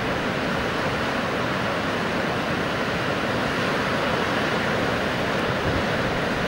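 Fast, turbulent river water rushing steadily: the Indus River in spate.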